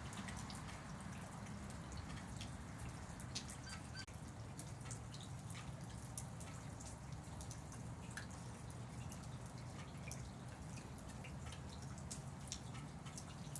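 Light rain falling: scattered drips and drops ticking irregularly over a steady low background noise.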